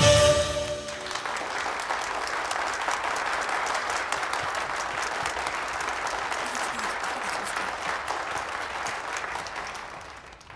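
Audience applauding steadily, dying away near the end; the last note of a song cuts off right at the start.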